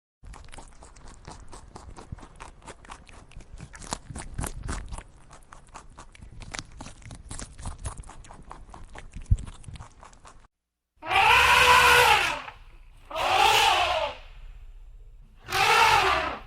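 About ten seconds of dense crackling and clicking, then, after a brief gap, three loud animal calls about a second each, each rising and then falling in pitch.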